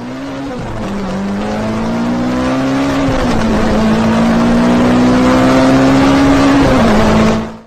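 Car engine accelerating hard through the gears: the pitch climbs steadily and drops at each upshift, three times, growing louder before fading out near the end.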